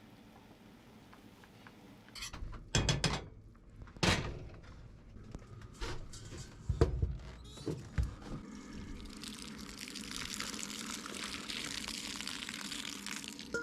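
A few separate knocks and clatters of a carton and utensil against a pan, then from about nine seconds in a steady sizzle as half and half cooks in the hot pan.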